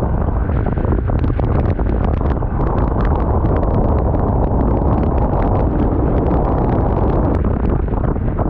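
Wind rushing over the microphone of a moving motorcycle, a loud steady roar with the engine underneath and many short crackles.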